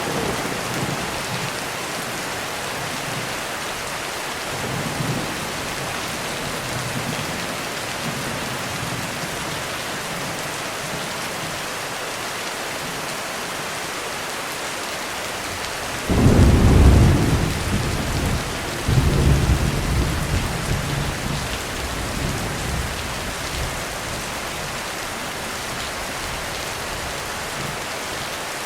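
Steady heavy rain with thunder: a faint rumble about five seconds in, then a loud thunderclap about sixteen seconds in, followed by a second peal about three seconds later, rolling away over the next few seconds.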